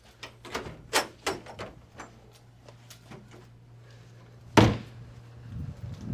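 A few light clicks and taps, then a door shut hard about four and a half seconds in, over a steady low hum.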